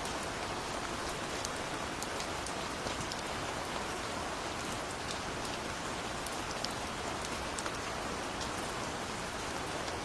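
Steady gentle rain falling, a constant hiss with many small drop patters scattered through it.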